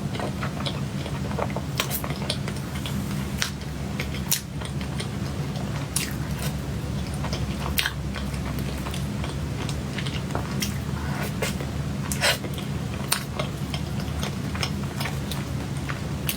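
Close-miked mouth sounds of a person eating cake: steady chewing with many scattered sharp smacks and clicks, over a constant low hum.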